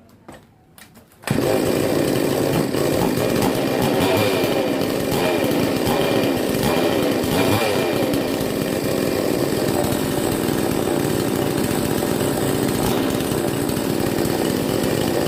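Two-stroke chainsaw engine running steadily at a fairly even speed. It comes in abruptly a little over a second in, after a few faint clicks.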